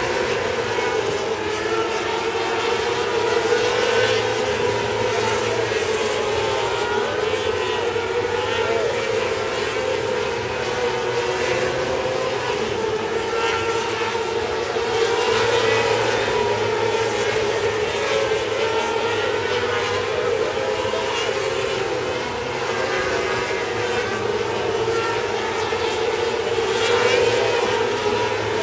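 Winged racing car's engine running hard and steady at high revs, its note dipping and rising slightly, with the sound swelling a little at intervals of about eleven seconds.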